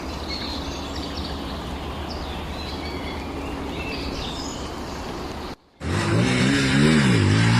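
Outdoor ambience with birds chirping over a steady low hum. About five and a half seconds in, the sound drops out for a moment, then an enduro motorcycle engine comes in loud, its pitch rising and falling as it revs.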